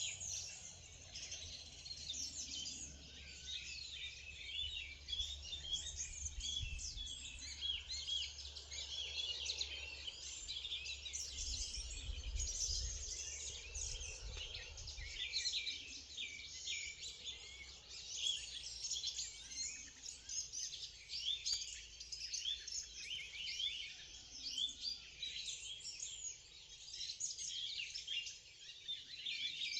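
Morning chorus of many songbirds chirping and trilling together, with a low rumble underneath that swells briefly in the middle.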